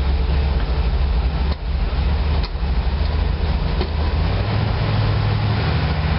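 GMC 366 gasoline V8 of a 1986 Blue Bird school bus idling with the choke pulled out; its engine speed steps up about four and a half seconds in. The engine only keeps running on choke, even hot and with a freshly rebuilt carburetor.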